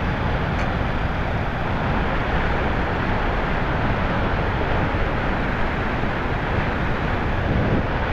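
Steady rush of wind and road noise on the helmet microphone of a Kawasaki Ninja 300 motorcycle being ridden.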